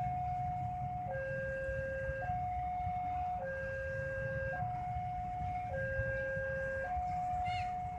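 Railway level-crossing warning alarm sounding: an electronic two-tone signal alternating high and low, each tone about a second long, which means a train is approaching and the crossing is closing. A low traffic rumble runs underneath, and there is a brief high squeak near the end.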